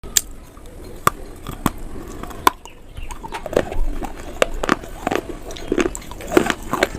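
Closely miked biting and chewing of crunchy food: a few separate sharp crunches in the first two and a half seconds, then quicker, denser chewing crunches from about three seconds in.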